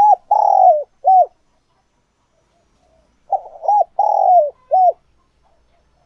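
Spotted dove cooing: two call phrases a few seconds apart, each a few short coos around a longer coo that falls in pitch at its end.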